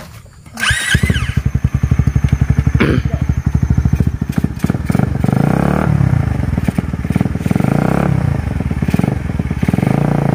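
A trail dirt bike's engine catches and starts about half a second in, then keeps running and is revved up and let back down several times.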